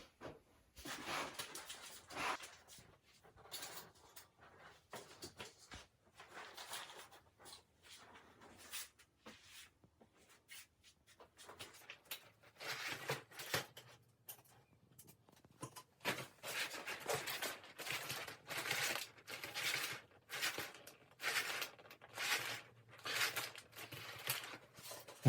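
Hand work on materials: irregular rustling, scraping and cutting strokes, sparse at first and coming in quicker runs in the second half.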